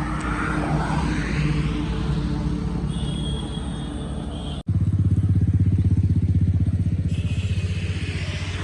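A motor engine running steadily. About four and a half seconds in the sound breaks off for an instant, and a louder, throbbing engine sound follows.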